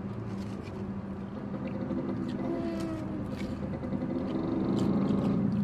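Steady engine hum heard inside a car's cabin, growing louder toward the end, with a few short crisp clicks from people biting fried snacks.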